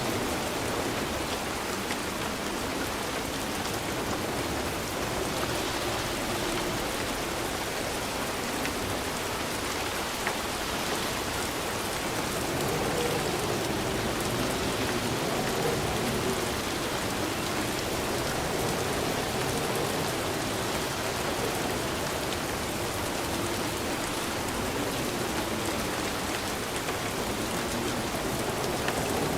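Steady heavy rainfall, a dense even patter of rain on a surface with no thunder.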